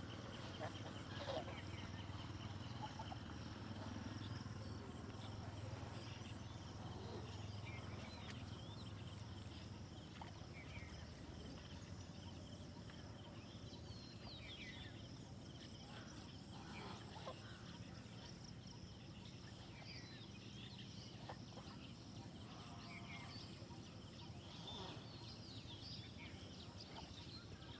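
Faint outdoor ambience: scattered short bird chirps and calls over a steady low rumble.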